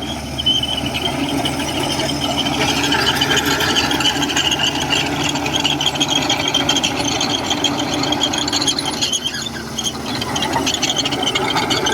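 Komatsu crawler bulldozer working: its diesel engine runs steadily under a high, wavering squeal typical of steel tracks moving, which eases briefly near the end.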